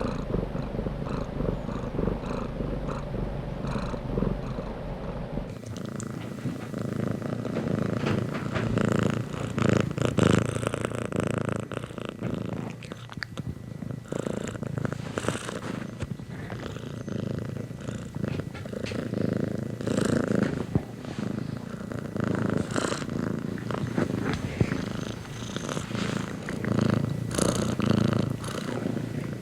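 Domestic cat purring continuously and close up. A low hum beneath the purr drops out about five seconds in.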